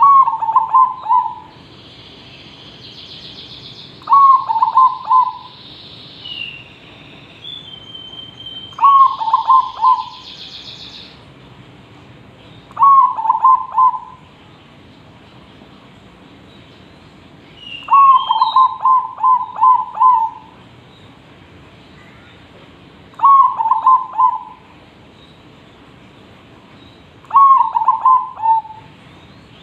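Zebra dove cooing its song: seven short phrases of quick, stuttering coos, one every four to five seconds. Fainter, higher chirps from another bird sound in the first ten seconds and again briefly around eighteen seconds in.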